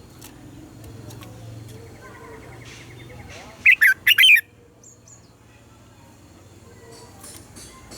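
Red-whiskered bulbul singing one short, loud phrase of quick whistled notes about halfway through, with faint chirps around it.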